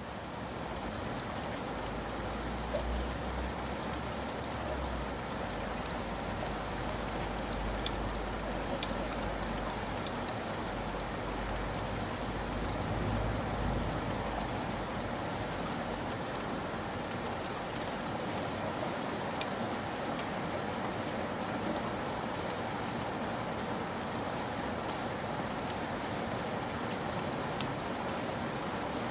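Steady rain falling on a surface, with single drops ticking now and then over the even hiss, and a low rumble in the first half.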